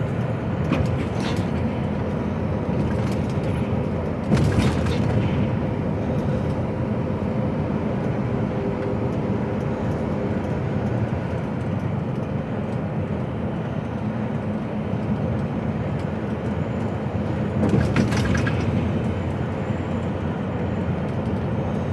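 HGV tractor unit's diesel engine running, with road noise, heard from inside the cab while driving. Two brief noisy bursts stand out, about four and a half seconds in and again near eighteen seconds.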